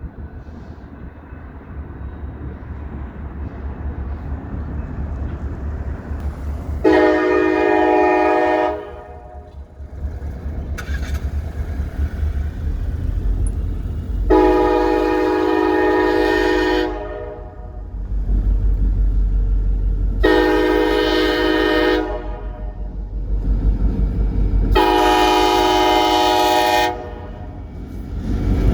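Diesel passenger locomotive pulling away with a deep, building engine rumble, sounding its air horn in four blasts: long, long, short, long. This is the standard signal for approaching a grade crossing.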